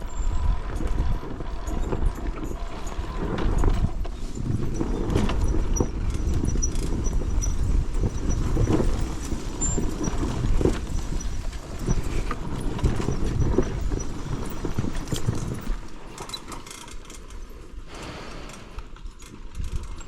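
Enduro dirt bike picking its way down a rocky descent: a low rumble under irregular knocking and clattering as the tyres and suspension hit the rocks. It gets quieter about three-quarters of the way through.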